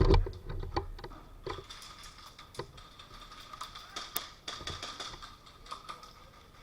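Irregular sharp clicks and taps, with a louder knock right at the start.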